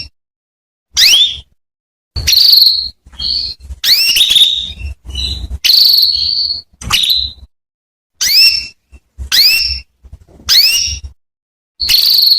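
Female canary giving repeated short, high, upward-sweeping calls, about one a second, some running into a brief held whistle: the calling used as a lure to get a male canary singing.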